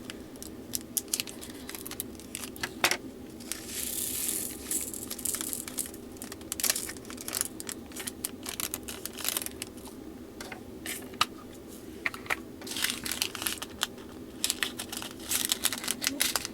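Small plastic bags of diamond-painting drills being handled and snipped open: crinkling and rustling with many sharp little clicks, in bursts rather than steadily.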